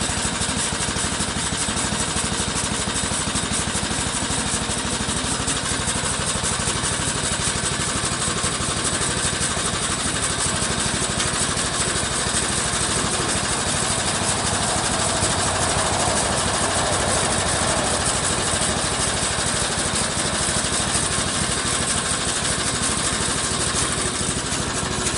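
Homemade bandsaw sawmill running steadily, its engine driving the band blade through a log.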